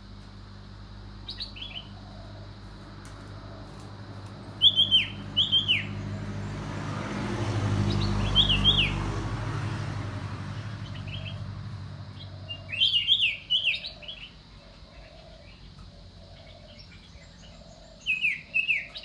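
Iora singing: short bouts of quick, sharply falling whistled notes, repeated five or six times with pauses between. A low rumble swells and fades under the song in the middle, over a steady low hum.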